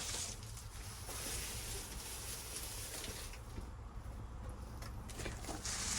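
Campfire tinder catching alight after a ferro rod spark: a soft hissing that fades a little past halfway and returns near the end.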